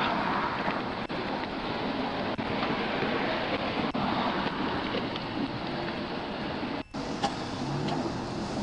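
Steady rushing road noise of highway traffic, with wind on a body-worn microphone. It cuts out briefly about seven seconds in.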